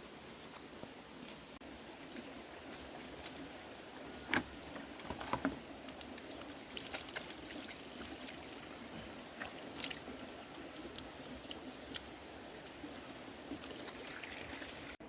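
Steady trickling water, with a few sharp knocks and clacks, the loudest about four and five seconds in.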